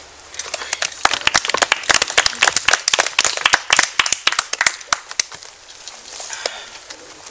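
Small audience applauding: many separate hand claps that thin out about five seconds in, with a few scattered claps near the end.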